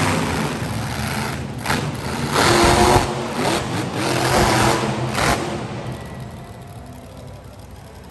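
Monster truck engine revving hard in repeated surges, its pitch climbing and falling, then easing off to a quieter run for the last couple of seconds.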